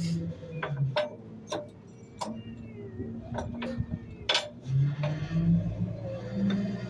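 Sharp, irregular clicks and cracks of trash shifting and breaking in a garbage truck's hopper, about ten of them under a second apart, over the truck's steady low hum.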